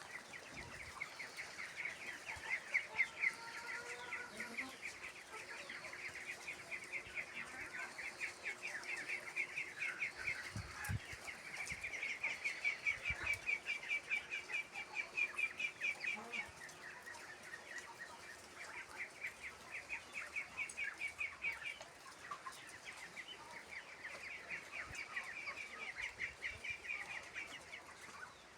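Mulard ducklings peeping: a flock giving rapid runs of short, high calls, with brief lulls between runs.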